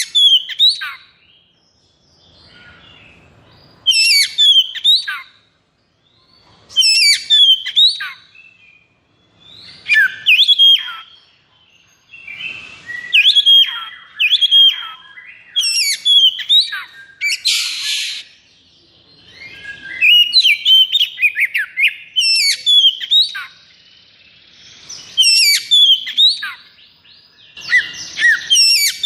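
Oriental magpie-robin (kacer) singing loud, fast phrases of whistles and chattering notes in bursts every two to three seconds, with short pauses between. Partway through there is one brief harsh rasping note.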